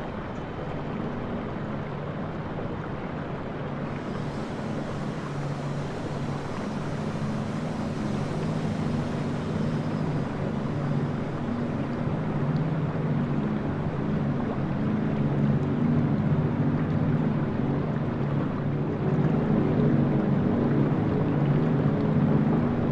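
Ship's engine droning steadily under wind and water noise, growing gradually louder.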